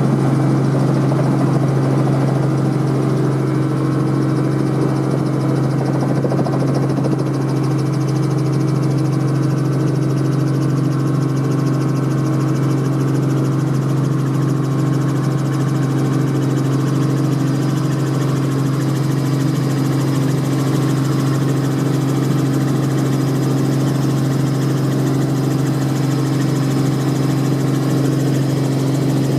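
Robinson R44 helicopter running, heard from inside the cabin: its piston engine and rotors make a loud, steady drone that holds the same pitch throughout.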